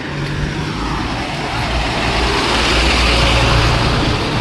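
A heavy road vehicle, a truck or bus, passing close by: low engine rumble and tyre rush swelling to a peak about three seconds in, then easing off.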